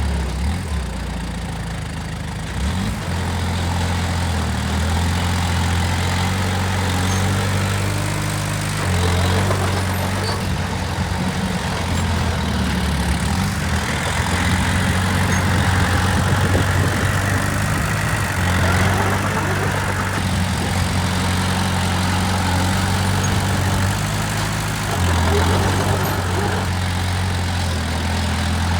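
Diesel engine of heavy earthmoving machinery running, its pitch stepping up and down several times as the load changes.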